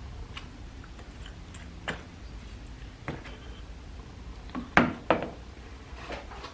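Scattered clicks and knocks of hand tools and engine parts being handled, with two louder knocks close together about five seconds in, over a low steady hum.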